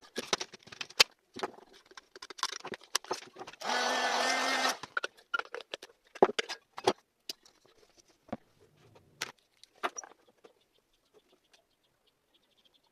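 Clicks, taps and knocks from small hard parts being handled and worked on, with one buzzing whir about a second long near the middle. The sounds thin out to near silence over the last few seconds.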